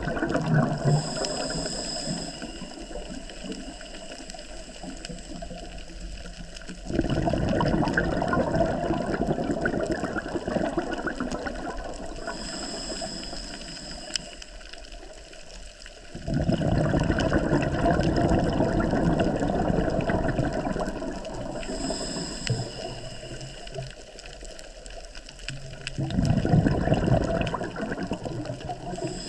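Scuba diver breathing through a regulator underwater. A hissing inhalation is followed a few seconds later by a burst of bubbling exhaled air that fades out, about every nine to ten seconds, with three exhalations in all.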